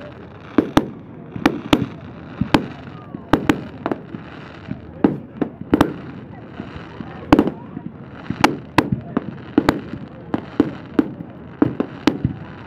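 Display fireworks going off in quick, irregular succession: sharp bangs and pops about two a second, some louder than others, with crackle between them.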